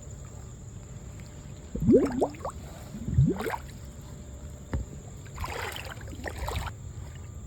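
River water sloshing and gurgling around someone wading, with two short rising glugs about two and three seconds in and a splashing rush a little past halfway.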